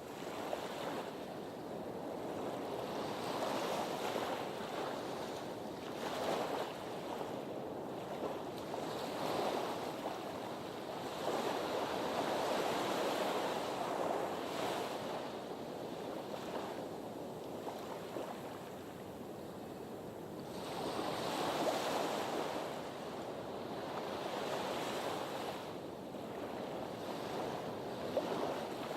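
Sea surf washing in against the shore, a noisy rush that swells and ebbs every few seconds.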